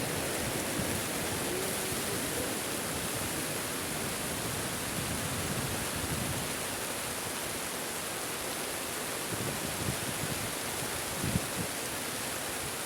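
Heavy rain pouring down in a steady, dense hiss, with one sharp knock about eleven seconds in.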